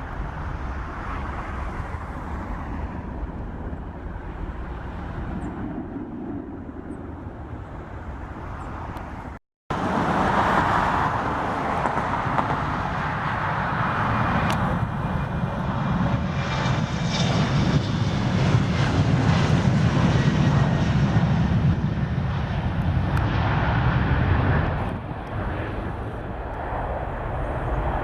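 Jet aircraft engines running as a plane passes on the runway. The sound drops out for an instant about a third of the way in, then comes back louder, swelling to a peak past the middle with a faint, slowly falling whine, and dips briefly near the end before rising again.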